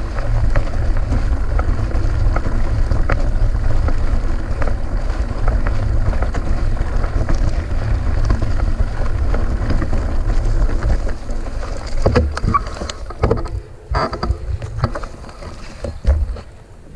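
Wind on an action camera's microphone and the low rumble of a full-suspension mountain bike riding fast on a gravel race course; about twelve seconds in the rumble eases as the bike slows, leaving scattered clicks and rattles from the bike and gravel.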